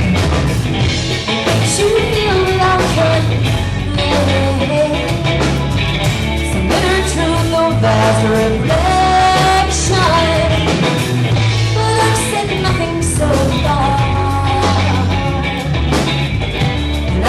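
Live rock band playing a song, with a sung lead vocal over electric bass, guitar and drums.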